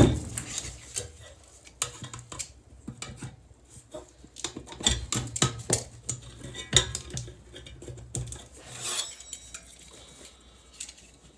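Small metal parts of a furnace burner assembly clinking and clicking as it is handled and taken apart, with irregular sharp knocks, the loudest at the very start.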